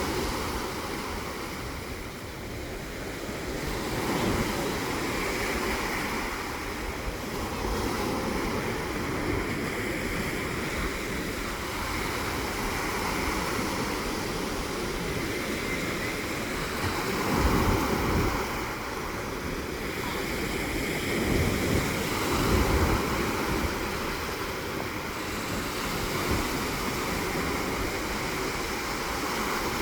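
Rough sea waves surging and breaking in a continuous wash that swells and ebbs every few seconds, with wind rumbling on the microphone.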